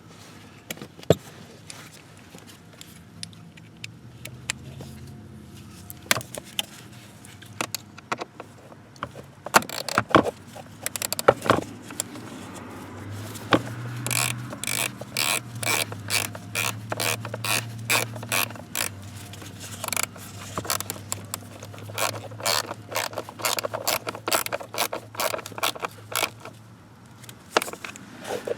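Tools and metal or plastic parts clicking and clattering, in a quick uneven run of sharp clicks through most of the second half, over a low steady hum.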